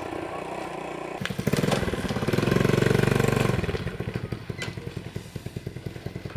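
Small engine idling, then revving up about a second in. It drops back and slows to separate beats that fade out near the end, as the engine winds down.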